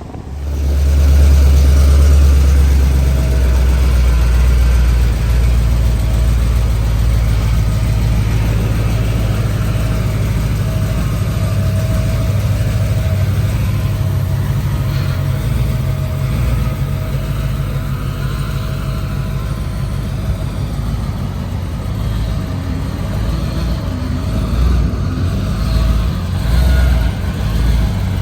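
Twin-turbocharged LS3 V8 in a 1948 DeSoto running with a deep, steady rumble, swelling briefly a few times near the end.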